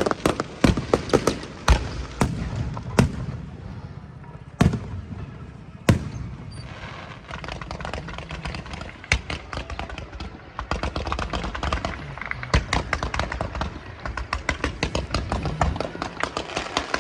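Aerial fireworks going off: sharp bangs of bursting shells, two big ones about five and six seconds in. After about seven seconds comes a dense run of rapid crackling pops.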